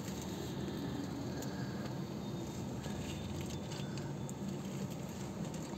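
Steady low hum of a parked Suzuki car's engine idling, heard from inside the cabin, with a few faint clicks midway.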